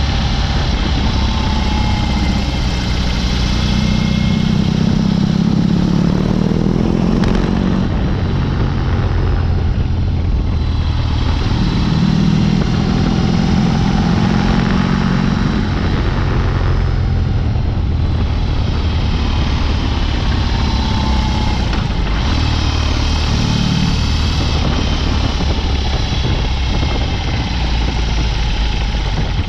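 BMW R18's big boxer twin running through a Dr. Jekill & Mr. Hyde exhaust, loud and steady under way. The engine note swells and eases a few times as the revs rise and fall.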